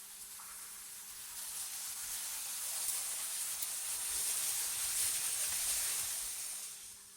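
AI-generated wind ambience: a high, hissing gust that swells over a couple of seconds, holds, then dies away near the end. A faint steady low hum runs underneath.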